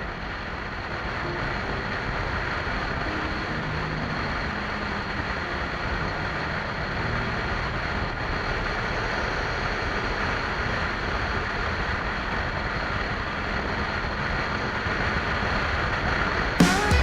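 Steady rush of wind and road noise from a moving motorcycle, with a faint engine hum underneath. Music comes in right at the end.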